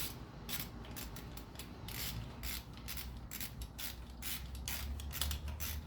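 Socket ratchet clicking in an irregular run as a 12 mm bolt is worked loose.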